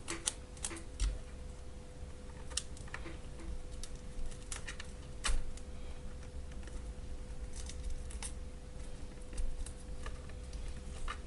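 Scattered small clicks and taps of battery cells and pack parts being handled and pressed into place on a workbench, with a faint steady hum underneath.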